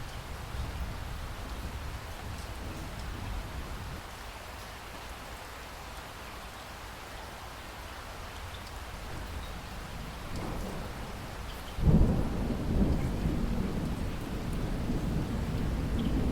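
Steady rain falling throughout, with a thunderstorm. Low thunder begins to rumble about ten seconds in, then a sudden loud thunderclap is followed by rolling rumbles.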